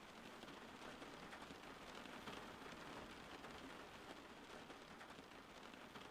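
Steady rain falling: a faint, even hiss of many small drops pattering continuously.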